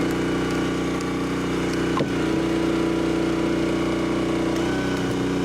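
Small gasoline engine running steadily. Its note shifts up about two seconds in and drops back lower near the end, as if the load on it changes.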